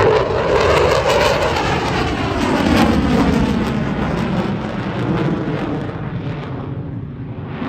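Jet aircraft flying past, a broad roar whose pitch sweeps downward as it goes by. It is loudest in the first few seconds and fades toward the end.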